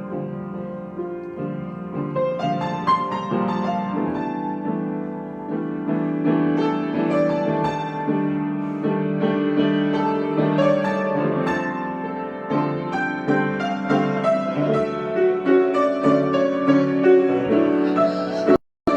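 Solo piano improvisation: sustained chords with melody notes over them, growing gradually louder. The sound cuts out completely for a moment near the end.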